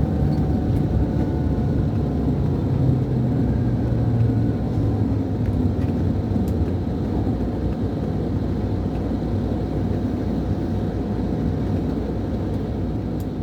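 Scania DC13 inline six-cylinder diesel of a Scania K440 IB coach, heard from inside the cabin. Its tone falls gently over the first few seconds, then settles into a steady rumble with road noise.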